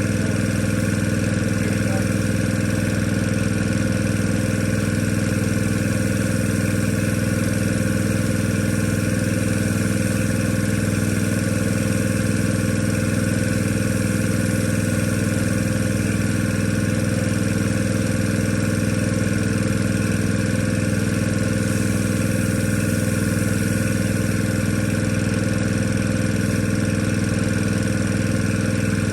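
Engine of construction machinery running at a constant speed, a steady unbroken drone with no change in pitch or load.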